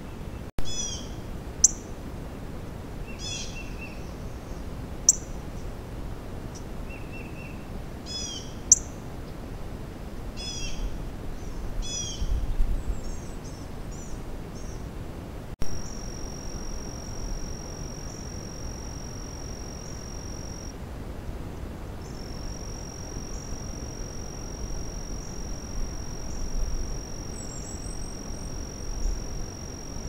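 Small birds chirping, short series of quick high notes repeated every second or two, with a few sharp clicks. The chirping stops suddenly about halfway through, and a steady high-pitched whine holds after it, broken once for about a second and a half.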